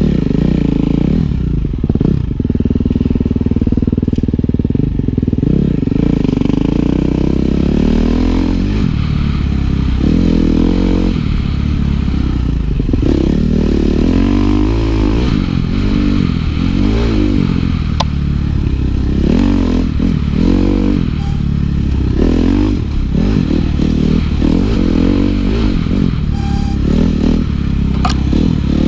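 Dirt bike engine being ridden hard, its pitch rising and falling over and over as the throttle is opened and shut through the turns and shifts. A couple of sharp clicks stand out briefly.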